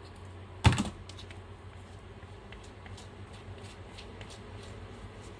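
Art supplies handled on a work table: one sharp clack about a second in, followed by a few quick clicks, then faint scattered ticks.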